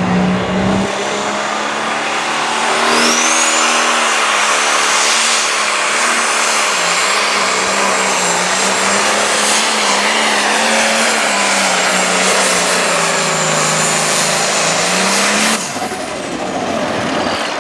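Turbocharged diesel pulling tractor running flat out while dragging a weight sled, with a high turbo whine over the engine. The engine pitch sags and recovers during the pull, then the sound drops off sharply near the end as the tractor's wheels spin out and the pass ends.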